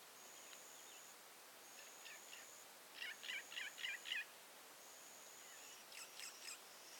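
Faint bush ambience with birds calling: a quick run of five chirps about three seconds in and a few more chirps near the end. Over this, a high thin steady note about a second long repeats every second and a half.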